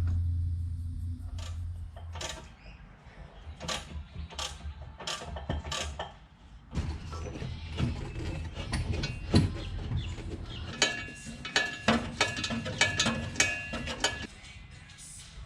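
Metal clicks and clinks of hand work on a car's gear shifter and shift-knob adapter, sparse at first and then quicker, with a short metallic ring on several strokes in the second half. A low hum fades out in the first second or so.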